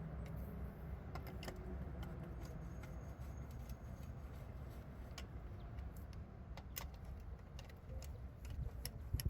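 Scattered light metallic clicks and clinks of bolts and a hand wrench as case bolts are run into a manual transmission, over a steady low hum.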